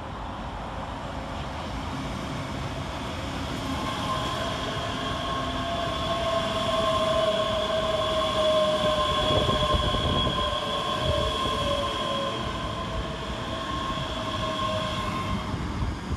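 Two coupled Class 385 electric multiple units passing through without stopping: a rumble with a steady whine of several high tones that builds, is loudest about ten seconds in, then fades away.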